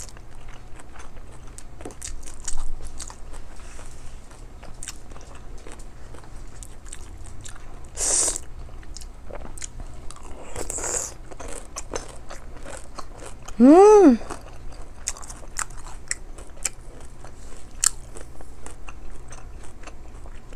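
Close-up eating sounds: wet chewing, lip smacks and mouth clicks as rice and mussel adobo are eaten by hand and spoon. About two-thirds of the way through, a short pitched sound rises and falls, the loudest moment.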